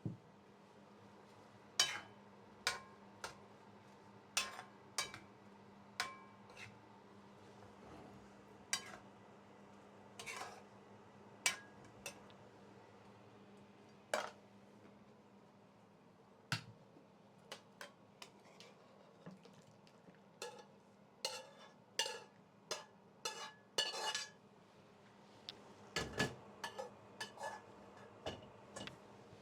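Metal utensil clinking and knocking against a cooking pot as curry is stirred, some strikes ringing briefly. The clinks come about one a second at first and fall closer together in the second half, over a faint steady hum.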